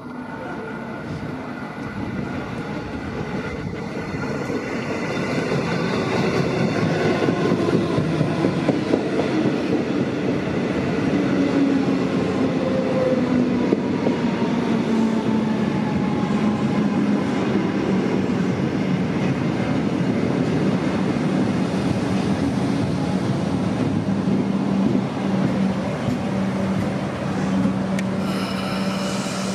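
Comeng electric suburban train arriving at a station, growing louder as it approaches and runs past close by. Its motor whine falls in pitch as it slows, and a steady hum sets in near the end as it stands.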